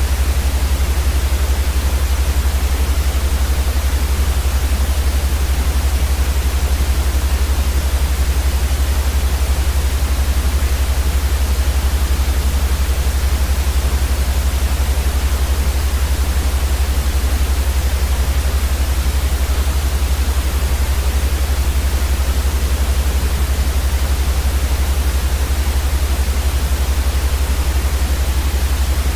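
Steady white noise for sleep: an even, unchanging hiss across all pitches over a strong low rumble.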